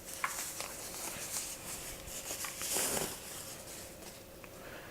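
Rustling and light scraping of the packaging as the speaker is taken out of its box, with a few small clicks and a louder rustle about three seconds in.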